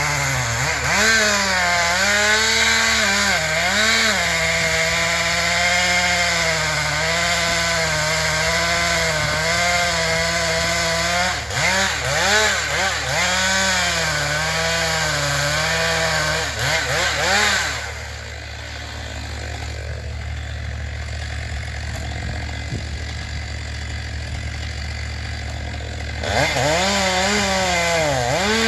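Chainsaw running at high revs and cutting into wood, its pitch repeatedly dipping and recovering as the chain bogs under load. About two-thirds through it drops to idle for several seconds, then revs back up near the end.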